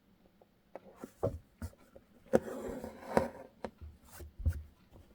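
Hand embroidery with a single strand of thread: a needle popping through fabric held taut in a hoop, several sharp taps, with a scratchy rub of thread being drawn through the fabric near the middle.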